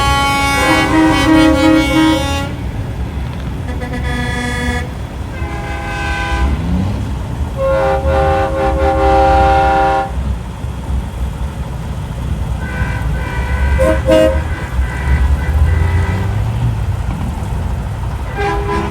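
Semi-truck air horns sounding in a series of separate blasts of one to two and a half seconds, at differing pitches, over the steady rumble of truck diesel engines.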